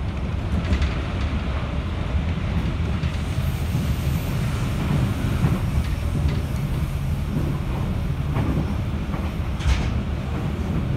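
Running noise of a JR 211 series electric multiple unit heard from inside the passenger cabin: a steady low rumble of wheels on rail, with a few sharp clicks, one about a second in and one near the end.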